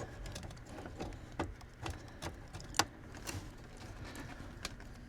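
Scattered light clicks and rustles of a turn signal switch's wiring harness and plastic connector being fed up through a car's steering column, with one sharper click a little past the middle.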